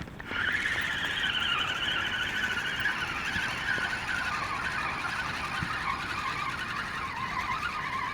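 A steady mechanical whine, wavering slightly and slowly falling in pitch through the whole stretch.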